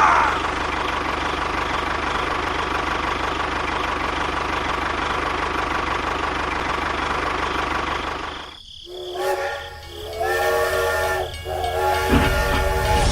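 A small motor running steadily with a faint whine, cut off abruptly about eight and a half seconds in. Then several held tones sound together like a horn or whistle chord, in a few stretches.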